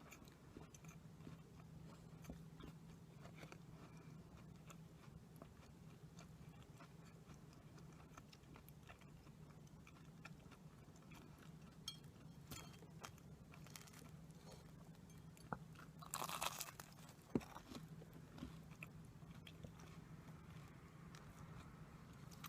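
Quiet close-up eating of sweets: faint chewing with small crunching bites. About 16 seconds in there is a brief louder crisp crackle.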